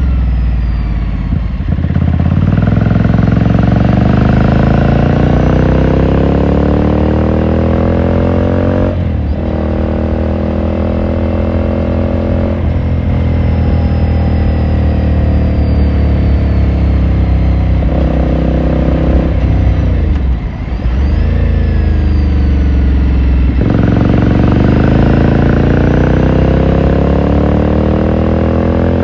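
A 2018 Ducati Scrambler Sixty2's 399 cc air-cooled L-twin accelerating under way, its exhaust note rising through the gears with a short break at each shift. Midway it holds a steadier pitch, then briefly drops off throttle about two-thirds through before pulling up through the gears again.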